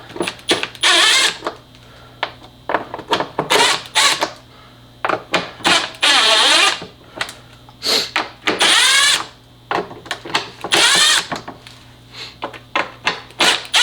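Electric driver with a T25 Torx bit, run in several short whirring bursts on small engine-cover screws, with short clicks between the bursts.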